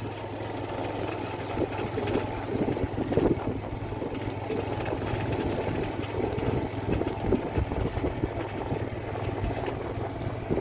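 An engine running steadily, a constant hum under rumbling noise, with faint rapid high-pitched pulsing above it.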